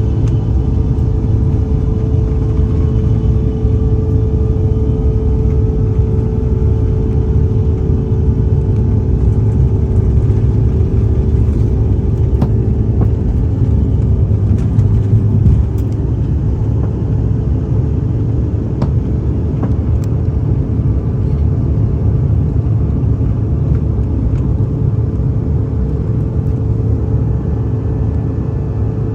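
The General Electric CF34 turbofans of a Bombardier CRJ-550 at full takeoff power, a steady buzzsaw drone over a heavy rumble. The buzzsaw sound comes from the fan blade tips turning faster than sound.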